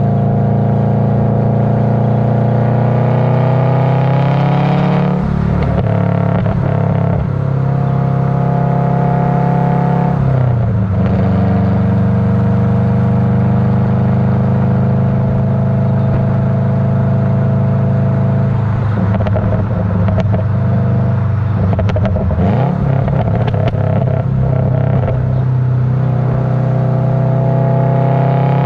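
Exhaust of a tuned, turbocharged Subaru Legacy GT flat-four with an axle-back exhaust and 5-inch mufflers, on the move. The note climbs steadily and drops sharply twice in the first half, holds a steady drone, then turns rough and crackly for several seconds in the second half, which fits the tune's added burble. It climbs again near the end.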